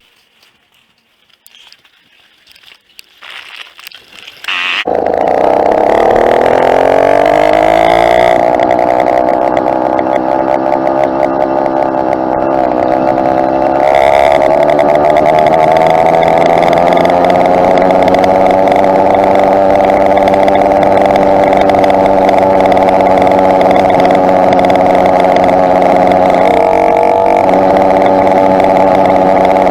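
A two-stroke motorized bicycle engine catches about five seconds in after a few quiet clicks, revs up over the next few seconds, then runs loud and steady at a near-constant pitch.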